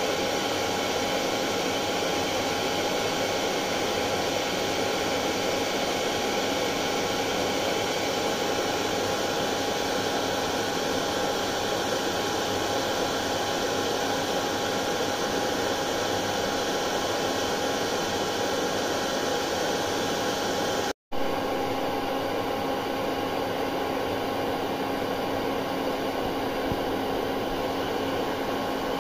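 Electric hair dryer running steadily, a constant rushing blow with a steady hum in it, played as white noise to soothe a colicky baby. About two-thirds of the way through it cuts out for an instant, then carries on with a slightly different tone.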